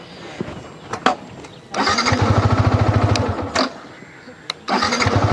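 Motorcycle engine turned over on its electric starter in two bursts of fast, even cranking pulses, each about two seconds long, without catching. The bike fails to start, a failure the rider blames on a run-down battery. A couple of sharp clicks come before the first attempt.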